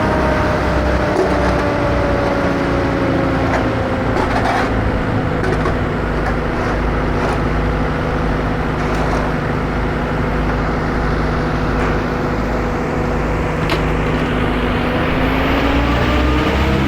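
Heavy engine of tree-clearing equipment running steadily. Its pitch sags slowly through the middle and climbs again near the end, with a few faint knocks.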